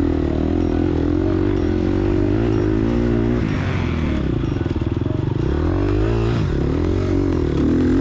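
Four-stroke single-cylinder engine of a 2022 Gas Gas EX250F dirt bike, revving up and down over and over as the throttle is worked on and off.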